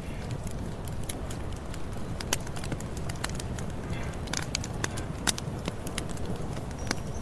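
Campfire burning: wood crackling with frequent irregular sharp pops over a steady low rumble of the flames, a couple of pops louder than the rest.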